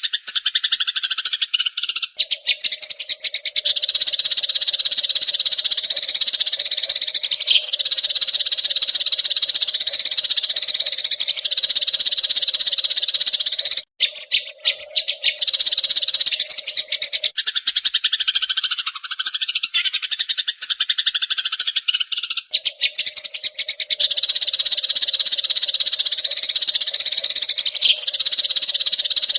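Wild Eurasian tree sparrows chattering in a fast, dense, unbroken stream of chirps, with a brief break about halfway through. A steady low tone runs underneath for long stretches.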